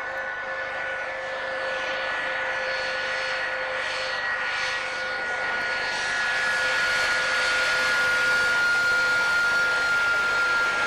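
An aircraft engine running as the plane passes by, with a steady whine that grows louder after about six seconds and slowly drops in pitch.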